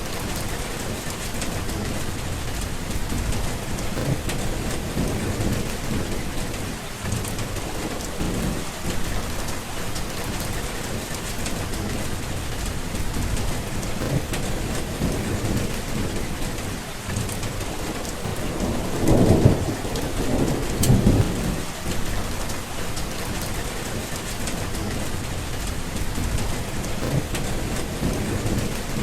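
Steady rain falling, with low rolling thunder rumbling underneath and swelling into a louder roll about two-thirds of the way through.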